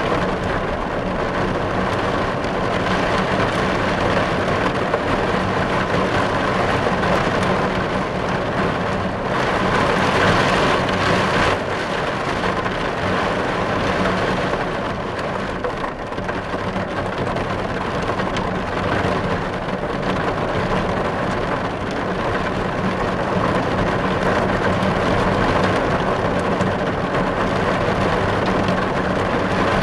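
Heavy rain drumming steadily on a car's windows and roof, heard from inside the cabin; the dense patter swells a little about ten seconds in.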